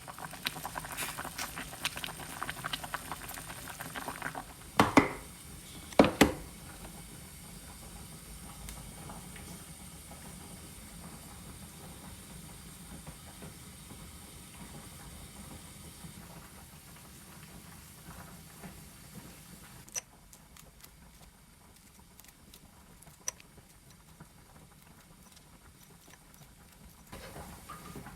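Kitchen cooking sounds: crackling and bubbling for the first few seconds, two loud sharp clunks about five and six seconds in, then a steady low hiss with occasional small clicks.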